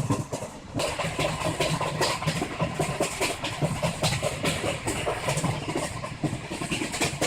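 Passenger train running, heard from on board: a steady low rumble with rapid clattering.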